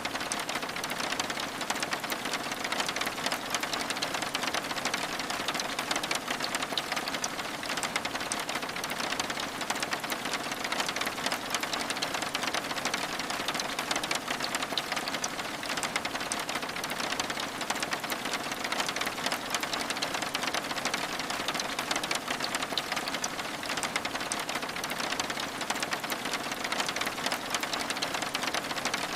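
Steady rain pattering on a cabin window, an even hiss made of many fine drop ticks that neither builds nor fades.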